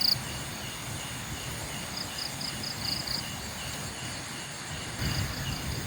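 Night insects chirping: one gives a steady chirp about two or three times a second, and a higher one calls in short runs of quick pulses, over a low background rumble. A brief sharp sound is heard right at the start, and the rumble grows louder near the end.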